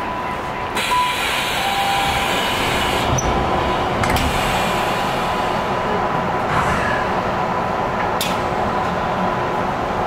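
Tobu Railway electric train running at the platform: a steady rumble and rush that gets louder about a second in and stays loud, with a couple of sharp clicks.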